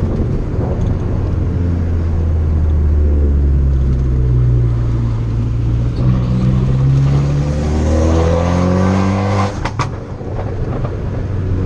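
A tuned 2013 Fiat 500 Abarth's turbocharged 1.4-litre four-cylinder running hard, its pitch climbing as the car accelerates. About nine and a half seconds in the throttle lifts with a couple of sharp exhaust cracks, and after a brief dip the engine carries on pulling steadily.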